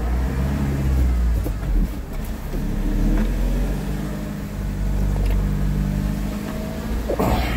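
Car engine running with low road rumble as the vehicle drives. Its note drops, then climbs again and holds from about two and a half seconds in, and there is a brief sharp noise near the end.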